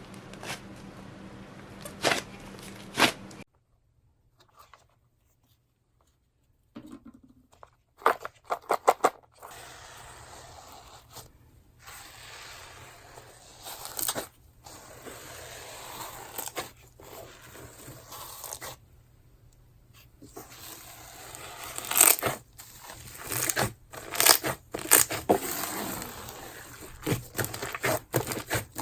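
Slime being kneaded and squeezed by hand: irregular sharp clicks, pops and crackles. There is a near-silent gap of a few seconds early on.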